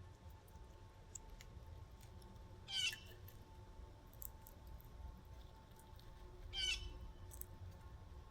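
A bird gives a short call that slides downward in pitch, twice, about four seconds apart, over a faint low background rumble.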